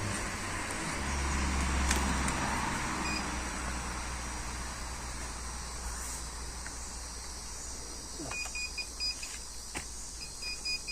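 Minelab Vanquish metal detector giving groups of short high beeps over a target near the end, over steady low rumble and rustling from the detector being handled and swept.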